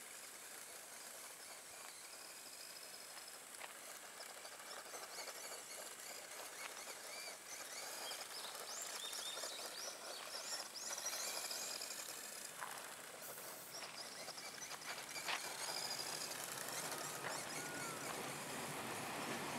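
Outdoor ambience with small birds chirping over a steady hiss, in a flurry of quick chirps about halfway through.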